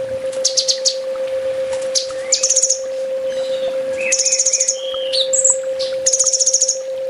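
Kolibri ninja (sunbird) singing in rapid bursts: high, fast trills of about half a second each, several in a row, mixed with short chirps and slurred notes. A steady low hum runs underneath.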